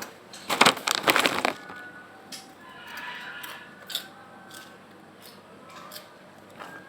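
Crisp snack crunched between the teeth close to the microphone: a loud burst of crunching about half a second in, lasting about a second, then softer scattered crackles and clicks.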